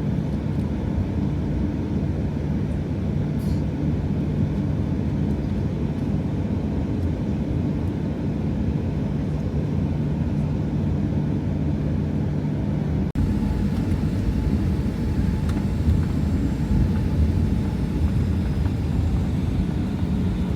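Airliner engine noise heard inside the cabin as the plane taxis: a steady low rumble with a hum. About two-thirds of the way through it changes abruptly and becomes a little louder.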